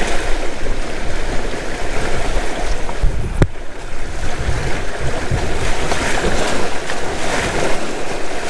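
Wind buffeting the microphone over the rush of water and waves along the hulls of a Windrider 17 trimaran sailing fast in strong squall wind. A single sharp click about three and a half seconds in.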